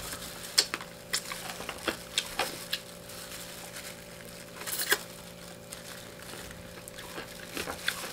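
Close-miked chewing of crispy fried chicken: irregular crunches and wet mouth clicks, with a louder crunch about five seconds in.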